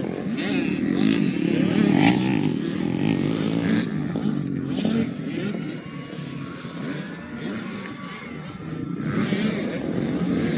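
85cc two-stroke motocross bikes racing, their engines revving up and down as they run around the track. The engines fade somewhat in the middle and grow louder again near the end.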